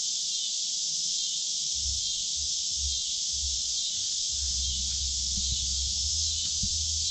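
Steady high-pitched insect chorus buzzing without a break, with a low bass thumping that comes and goes underneath.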